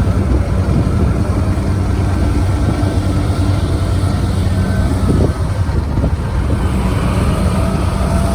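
Kubota DC-73 combine harvester running steadily in the field: a loud, even diesel engine drone with a fainter higher whine from the machinery above it.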